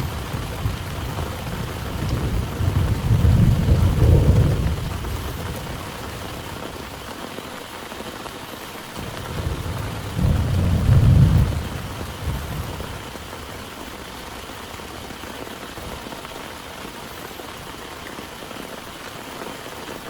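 Steady heavy rain with two rolls of low thunder, one a few seconds in and one about halfway through.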